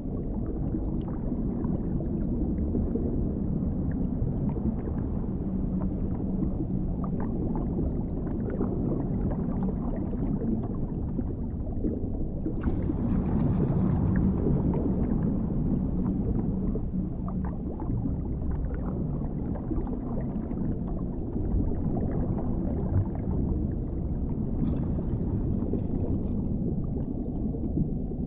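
Dark underwater ambience: a steady, muffled low rumble, swelling louder and brighter for a few seconds about halfway through.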